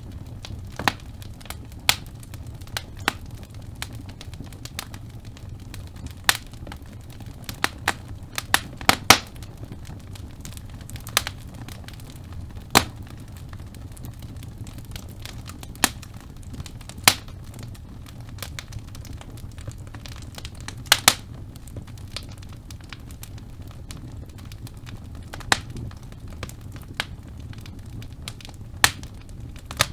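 Wood fire burning in a fireplace: a low steady rumble of flames with irregular sharp crackles and pops from the burning logs, a quick cluster of them about nine seconds in.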